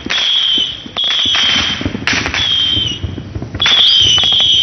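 Fireworks going off in quick succession: about five shrill whistles, each about half a second long with a hissing rush that wavers and dips slightly at its end, mixed with sharp cracks.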